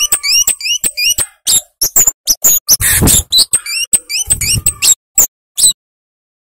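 Flowerpecker (kemade) calling: a rapid run of sharp, high chips and short upslurred notes that stops abruptly about five and a half seconds in.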